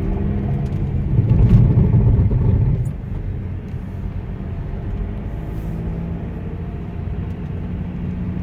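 Jeep Compass driving slowly on an icy road: a steady engine and tyre rumble that swells louder for about two seconds, starting a second in.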